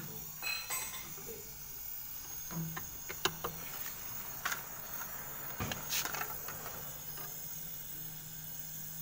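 Scattered clicks and knocks of tools and metal parts being handled while refrigeration pipework is readied for brazing. A steady low hum sets in about six seconds in, over a faint continuous hiss.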